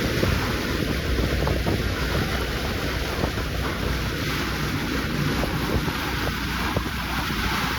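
A cruising boat's outboard engines running at slow speed, with steady wind noise and water washing along the hull.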